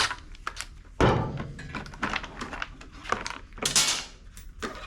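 Clicks, knocks and clunks of hand tools, screws and the mower's top cover being worked and handled. The loudest knocks come about a second in and again near four seconds.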